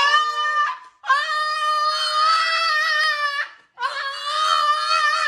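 An animal's long, drawn-out cries, three in a row, each held for about two seconds at a fairly steady high pitch with short breaks between them.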